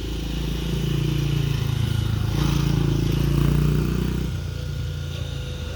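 Dirt bike engine running as the bike rides past, getting louder to a peak about three seconds in and then fading away as it moves off.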